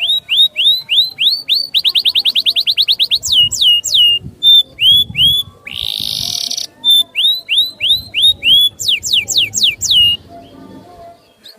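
A songbird in full song, loud and varied: runs of rising whistled notes, a rapid trill of about eight notes a second, steeply falling slurs, and a brief harsh rasping note about six seconds in.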